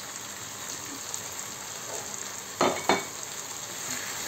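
Chicken and vegetable filling frying and sizzling in a pan as its moisture cooks off. Two sharp knocks come close together about two and a half seconds in.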